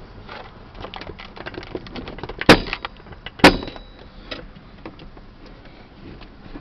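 A run of small clicks and rattles, then two sharp loud knocks about a second apart.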